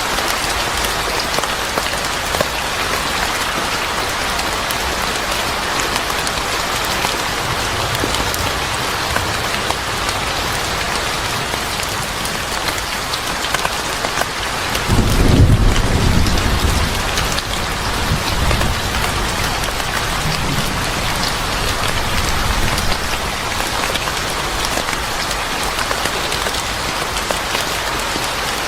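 Steady rain falling, with a low rumble of thunder about halfway through.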